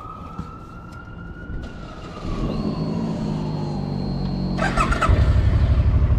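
A distant siren wails, rising and then falling, while a motorcycle engine, the Suzuki Boulevard M50's 805 cc V-twin, turns over and catches about five seconds in. It then runs at a loud, evenly pulsing idle.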